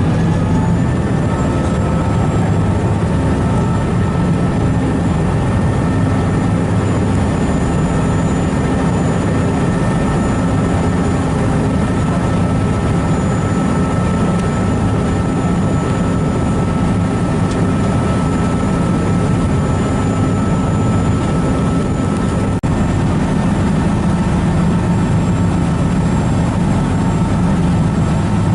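Harbour ferry's engine running steadily: a loud low drone with a faint whine that climbs in pitch in the first second, then holds.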